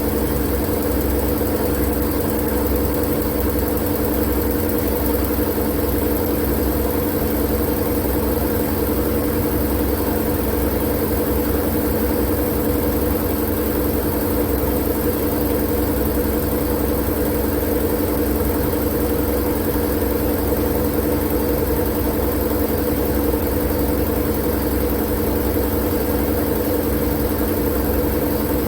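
Steady, unchanging droning white noise for sleep, with a strong low hum over a rumble, like a machine running. It stays the same throughout, with no breaks or changes.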